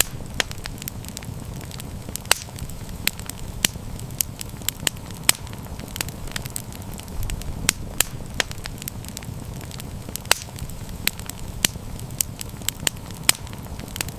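Wood fire crackling, with many sharp, irregular pops and snaps over a steady low rumble of flames.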